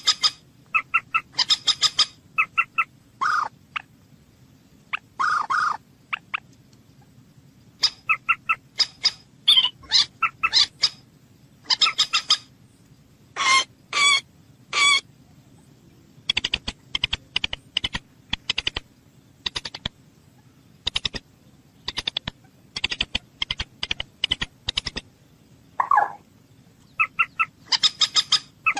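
A bird calling in bursts of short, repeated notes, with a quicker run of clipped notes through the middle.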